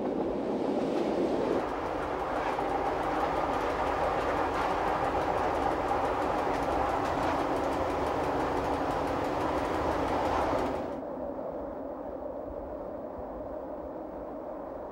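Berner Oberland-Bahn electric train running along the track, its wheels clicking over the rails with a steady rushing noise. About eleven seconds in the sound drops to a quieter, duller rumble.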